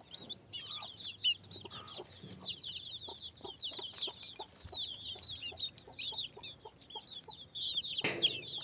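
Chickens clucking over a dense, continuous chorus of quick high chirps, with one louder squawk-like call near the end.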